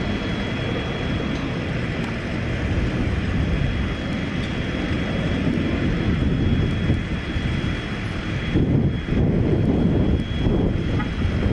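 Propeller-driven engine running steadily at close range: a loud, low, continuous drone with a faint, steady high whine over it.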